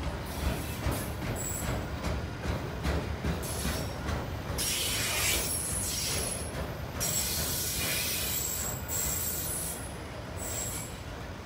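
Autorack freight cars rolling past on the rails with a steady low rumble. A high hissing wheel squeal comes and goes, loudest from about four and a half to ten seconds in.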